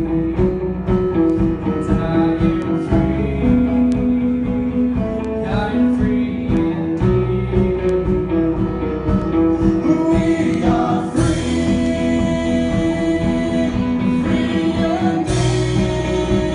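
Live gospel worship music: a band with guitar and drums playing, with singing.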